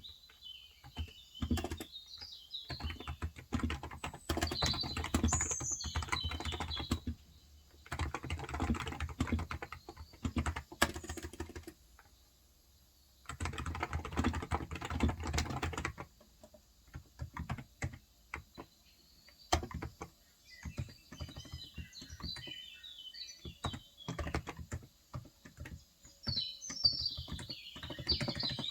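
Typing on a Cox Endeavour tenkeyless electrostatic-capacitive keyboard with 35 g switches, in runs of quick keystrokes broken by short pauses. Birds chirp in the background near the start and again in the last third.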